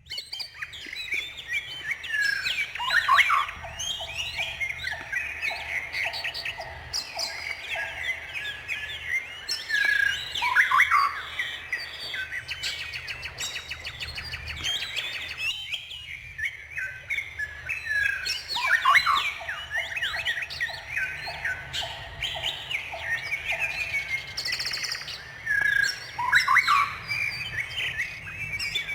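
Several songbirds chirping and singing together in a dense chorus of quick, high chirps and trills. A rapid series of short, evenly spaced lower notes comes twice, and the same stretch of calls repeats about 16 seconds later.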